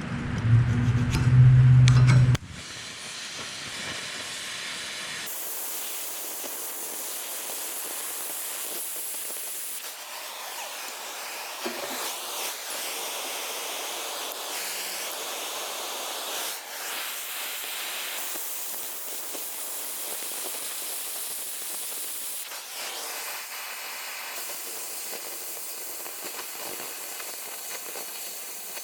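Oxy-fuel cutting torch hissing steadily as it cuts through steel railway rail, getting louder and brighter about five seconds in. A loud sound takes the first two seconds or so before the hiss.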